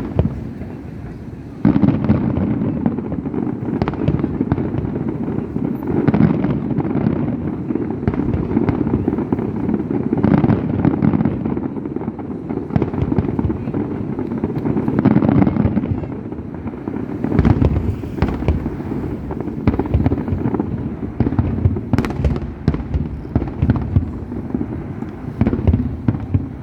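Fireworks display: a dense, continuous barrage of bangs and crackling shell bursts, which picks up to full intensity about two seconds in. Sharp cracks stand out throughout.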